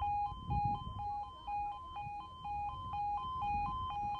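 UK level crossing audible warning alarm sounding its two-tone yodel, two pitches alternating evenly several times a second, heard from right under the alarm while the crossing is closed for an approaching train.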